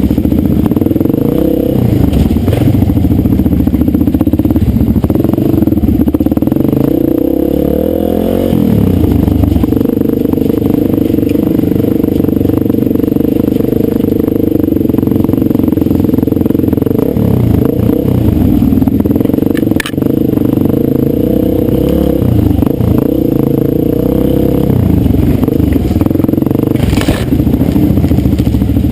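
Dirt bike engine running under way, its pitch rising and falling as the throttle is worked, holding steady for a long stretch in the middle. A sharp click about twenty seconds in and another near the end.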